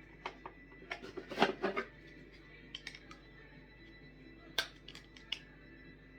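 Hard plastic parts of a Miele Blizzard CX1 vacuum's dust bin and filter frame being handled: irregular clicks and knocks, a quick clattering run about a second and a half in, then a few single sharp clicks. The parts slip because the filter frame is broken.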